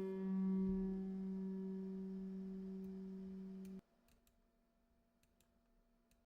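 Final acoustic guitar note ringing out and slowly fading, cut off abruptly a little under four seconds in; then near silence with a few faint clicks.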